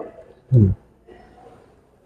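A single short spoken syllable about half a second in, then faint background noise.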